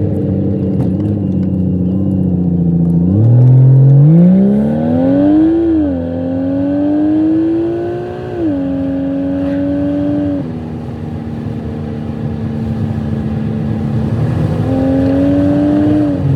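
Car engine pulling hard through two gears, with its pitch rising and then dropping at each shift, before it settles into a steady cruise. It rises briefly again near the end.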